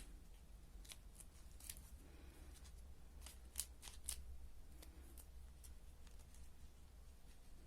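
Faint handling of paper pieces: scattered small crinkles and ticks as origami parts are fitted and glued together, with two sharper ticks about halfway through, over a low steady room hum.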